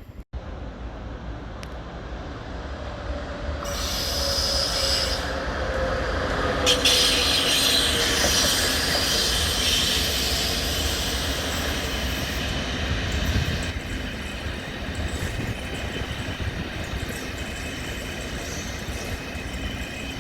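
A train running on the rails, its wheels squealing with high-pitched tones. The noise builds over the first few seconds, is loudest from about four to thirteen seconds in, then eases to a steadier rumble.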